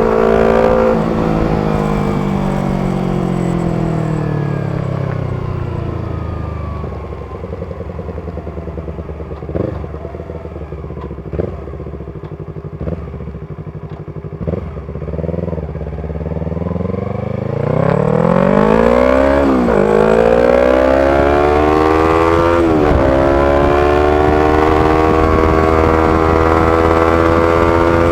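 Yamaha R25's 250 cc parallel-twin engine through a B-Pro aftermarket exhaust, ridden: the revs fall away over the first several seconds, a few short blips of throttle come in the low, quieter stretch, then the engine accelerates hard from about two-thirds through with two gear changes and holds a high steady note near the end.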